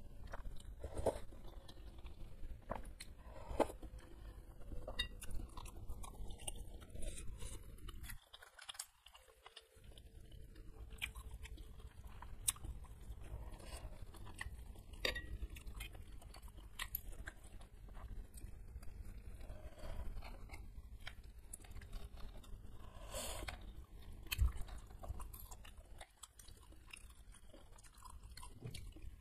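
Close-miked chewing and wet mouth sounds of someone eating egg-filled beef meatballs (bakso) with noodles in spicy broth, with many scattered sharp clicks; it drops quieter for a moment about eight seconds in.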